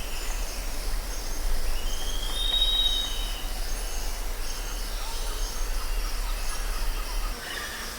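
Outdoor nature ambience: small birds chirping, with one clear whistled call a little after two seconds in, over a steady low rumble that drops away about seven seconds in.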